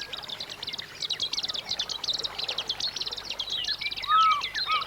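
Several birds calling at once: a dense run of rapid, high chirps, joined about three seconds in by lower, looping whistled notes. The loudest whistle comes about four seconds in.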